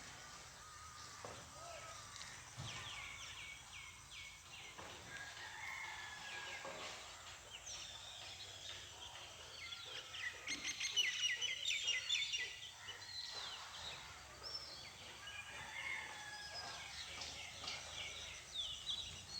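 Birds chirping and trilling in quick, overlapping series over faint background noise, busiest about halfway through.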